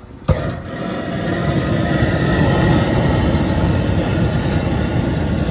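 Crawfish washer running with a load of live crawfish, its water churning in a steady, loud rumble. It starts with a click just after the start and builds over the first two seconds.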